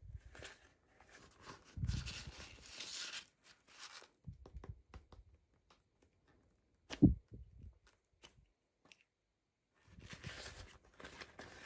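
Toy packaging being handled and torn open: bursts of rustling and tearing, with one sharp knock about seven seconds in.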